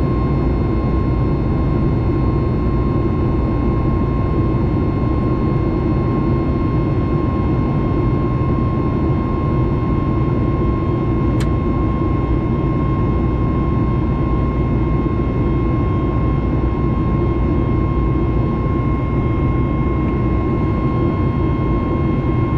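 Cabin noise of a Boeing 737 MAX 9 in flight, its CFM LEAP-1B engines running steadily: a constant deep rumble with a steady high whine over it. A single faint click about eleven seconds in.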